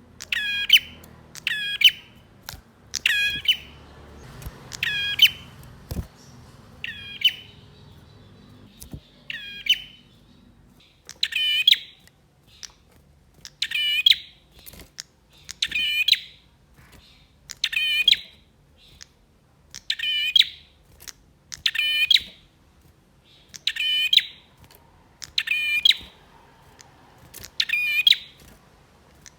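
Male prenjak (prinia) singing loud, short bursts of sharp chirping notes over and over, about one burst every two seconds, in the agitated full-voiced song keepers call 'gacor'.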